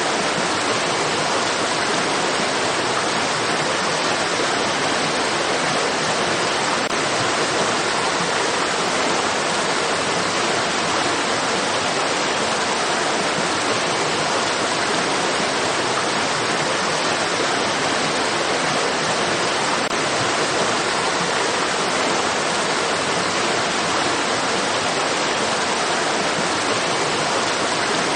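Running stream water, a steady even rush that does not change in level or character.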